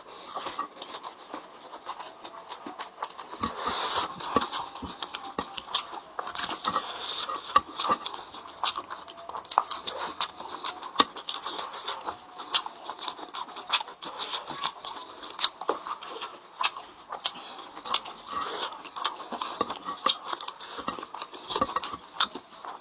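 Close-up eating sounds of a person chewing and biting into chicken: a steady run of irregular wet clicks and smacks from the mouth.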